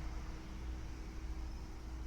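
Steady low electrical hum with a thin constant tone and an even hiss over it; nothing else happens.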